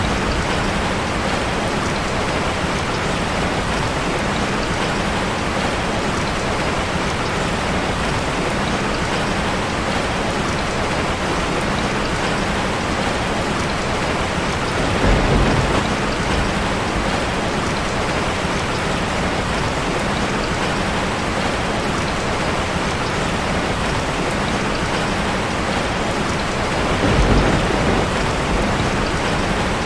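Steady rain drumming on a metal roof, with two brief low rumbles, one about halfway and one near the end.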